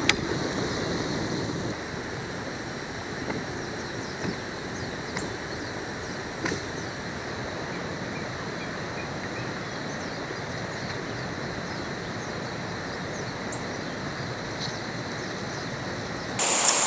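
Steady outdoor background hiss of the jungle campsite with a few faint clicks. Near the end a hand saw starts cutting through wood in quick rhythmic strokes.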